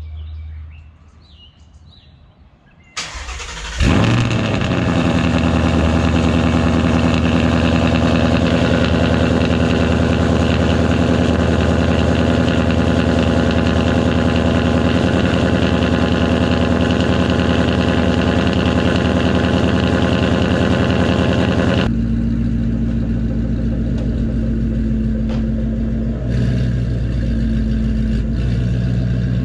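2019 Ford Mustang GT's 5.0-litre V8 being started about three seconds in: a brief crank, the engine catches, then runs at a steady fast idle. About two-thirds of the way through the idle drops and deepens, with a brief rise a few seconds later.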